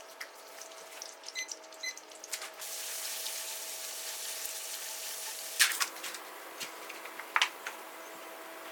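Kitchen tap running into a sink for about three seconds, then shut off, followed by a few sharp clatters of kitchenware. Light clicks and two short beeps come before the water starts.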